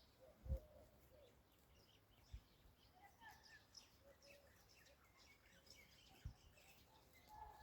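Faint bird chirps and song, scattered over a quiet outdoor background, with three brief low thumps, the loudest about half a second in.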